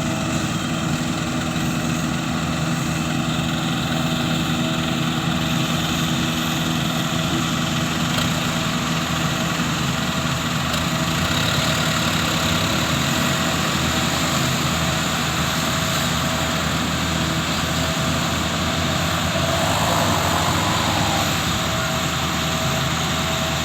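Toyota Dyna dump truck's diesel engine running steadily at an even speed.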